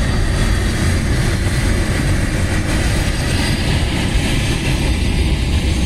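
Loaded container flat wagons of a long freight train rolling over a railway bridge: a loud, steady rumble of steel wheels on the track.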